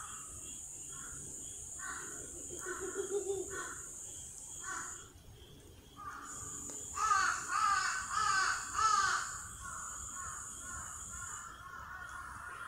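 Harsh, cawing bird calls: a loose series of notes, then a louder run of about five harsh calls between about seven and nine seconds in, trailing off into quieter calls. Under them runs a steady high-pitched hiss that drops out briefly around five seconds.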